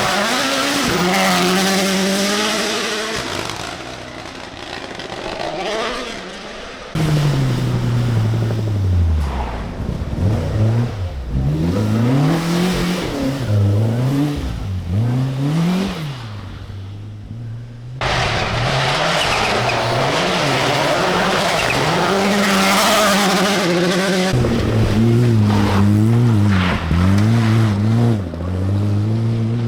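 Rally car engines revving hard and dropping through rapid gear changes as several cars pass in turn, with abrupt cuts from one car to the next about 7, 18 and 24 seconds in.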